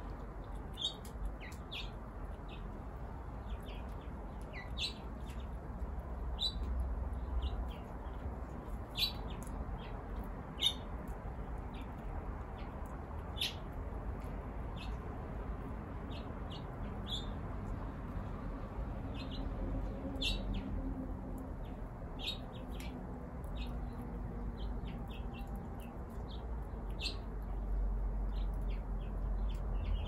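Small backyard birds chirping: many short, high chirps scattered irregularly throughout, over a low steady rumble that grows a little louder near the end.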